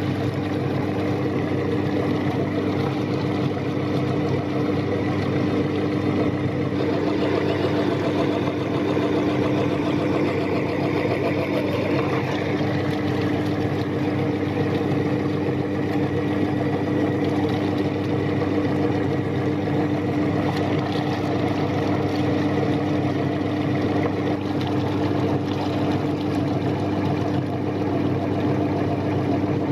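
Electric meat grinder running steadily, its motor humming evenly with a rough grinding noise over it.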